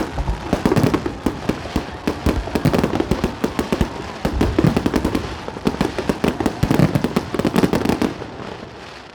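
Fireworks going off in a rapid barrage of bangs and crackles, thinning out and dying away near the end.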